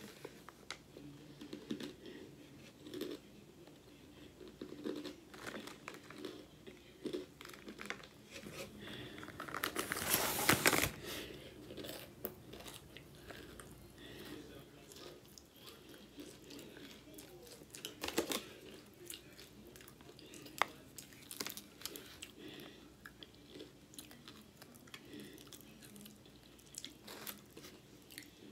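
Close-up crunching and chewing of Lay's potato chips: many small crisp crunches. A louder crinkling rustle of the foil chip bag comes about ten seconds in.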